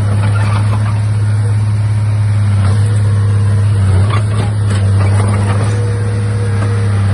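Diesel engine of a crawler bulldozer running steadily, a loud low hum, with scattered short knocks and a faint whine that comes and goes.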